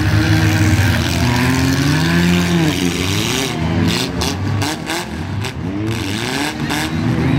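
Several demolition derby car engines revving up and down at once over a steady din. From about halfway through there is a run of sharp bangs.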